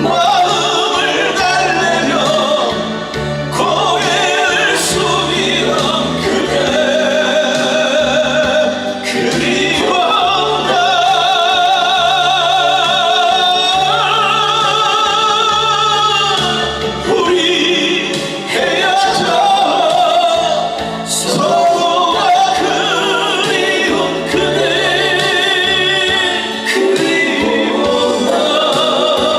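Music: a solo singer's voice with strong vibrato, held on long notes, over a backing track with a steady repeating bass line.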